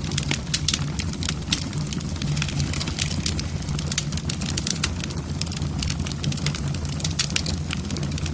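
Wood fire burning in a fireplace, the logs crackling with many sharp, irregular pops over a steady low rumble.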